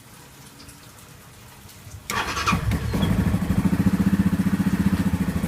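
Yamaha Grizzly 550 ATV's single-cylinder four-stroke engine being started: about two seconds in the electric starter cranks briefly, and the engine catches within a second and settles into a steady, evenly pulsing idle. It starts easily with a freshly fitted spark plug, where a fouled plug had made it crank poorly and die.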